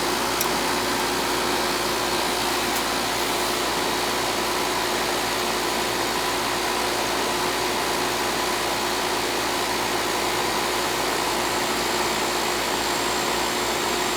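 Central air conditioner's outdoor condensing unit running steadily, its compressor and condenser fan making an even mechanical noise with a few steady tones through it.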